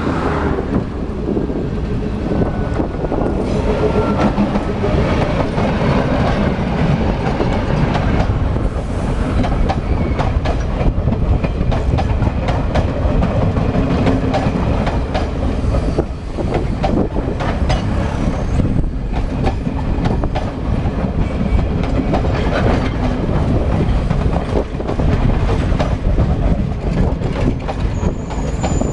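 Express train passing close by at speed: the diesel locomotive goes by near the start, then a long rake of Chinese-built passenger coaches rattles past with a steady rumble, wheels clattering over the rail joints.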